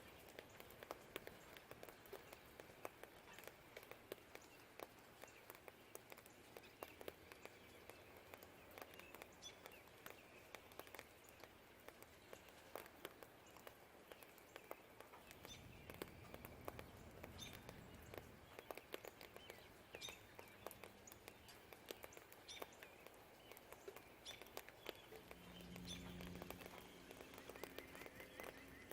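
Faint rain pattering and dripping, with scattered birds chirping. A low rumble swells for a few seconds about halfway through, and a low hum passes near the end, like distant traffic or thunder.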